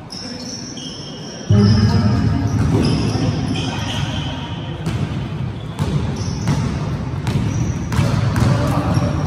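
Basketball game on an indoor court: the ball bouncing on the hardwood floor amid players' voices and short high squeaks. The sound jumps suddenly louder about a second and a half in.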